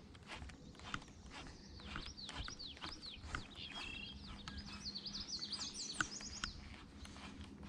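Wild birds chirping: a busy run of short, high, falling notes that crowds together in the middle, over a low steady rumble.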